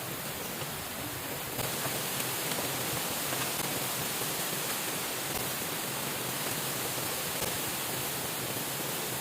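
Steady hiss of water, rain or river, that grows a little louder about a second and a half in.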